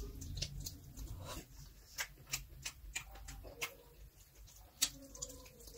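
Close-up eating sounds: chewing and wet lip-smacking while biting into a fried chicken lollipop held by hand, with irregular short mouth clicks and smacks.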